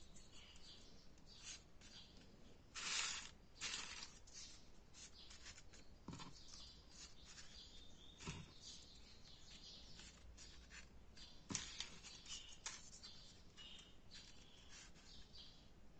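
Faint handling of folded paper origami pieces: soft rustles and light clicks, with two longer rustles about three seconds in.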